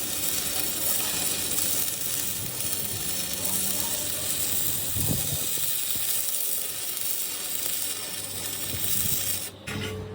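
A steady hiss that cuts off suddenly about nine and a half seconds in.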